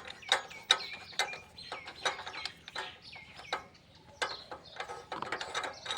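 Irregular metal clicks and clinks of a tubular spark plug spanner being worked on a power weeder's spark plug to free it, with birds chirping during the first few seconds.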